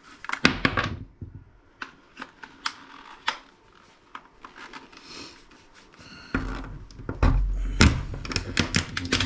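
Plastic clicks and snaps of a remote control's case being handled and pried open, with irregular sharp taps throughout. From about six seconds in there is a low rumble under quicker clicking.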